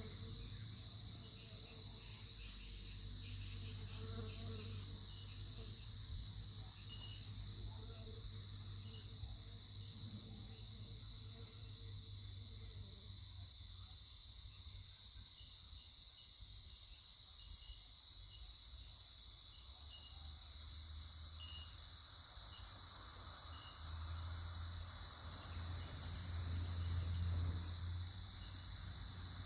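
A steady, high-pitched chorus of crickets or similar insects, with faint short chirps repeating about once a second.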